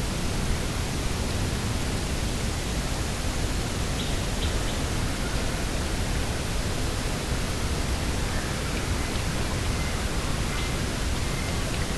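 Steady, even rushing of coastal wind. A few faint, short, high bird chirps come about four seconds in and again near the end.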